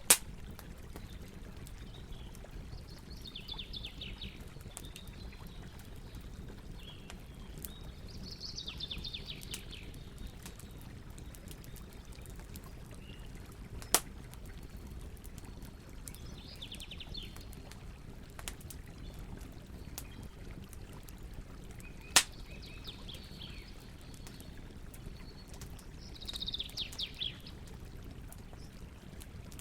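Campfire crackling over a steady low rumble, with scattered small pops and three sharp loud ones: right at the start, about halfway through and about two-thirds through. Birds chirp in short bursts several times.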